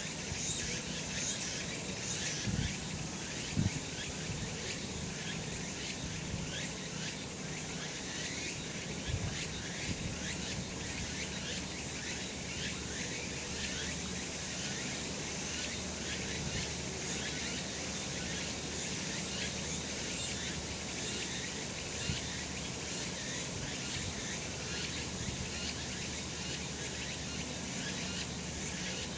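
Cicadas singing in a steady, dense high-pitched buzzing chorus. There are a few brief low bumps in the first few seconds.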